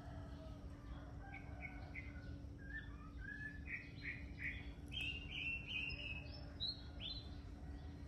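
A wild bird singing a run of short whistled notes that step upward in pitch, getting louder and quicker toward the end, over a steady low hum.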